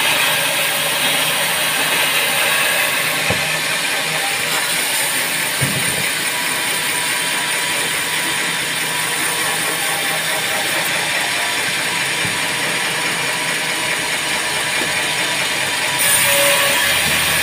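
Band sawmill running, a steady dense mechanical noise. It grows louder, with more low rumble, near the end.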